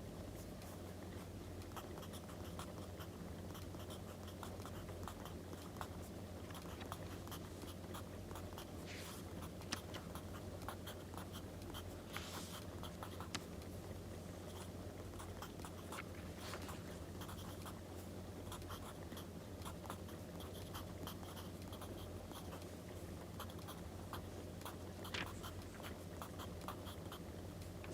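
Writing on paper, scratchy strokes over the scattered small pops of a crackling wood fire and a steady low hum.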